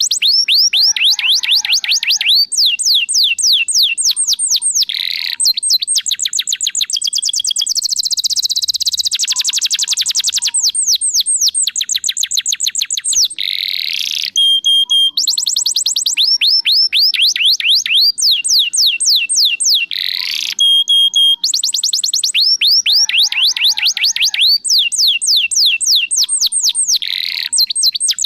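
Domestic canary singing a long, loud, continuous song of fast repeated trills and sweeping whistled notes, with only brief breaks between phrases.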